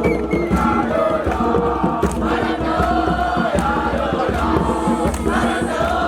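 A group of voices singing a chant together.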